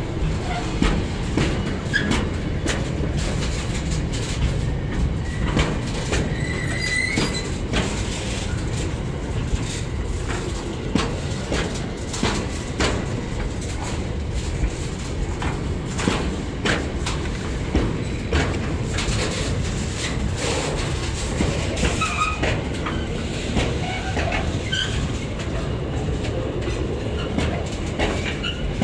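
Intermodal freight train of container and swap-body flat wagons rolling past close by: a steady low rumble of wheels on rail with repeated clacks over rail joints and a few brief high wheel squeals.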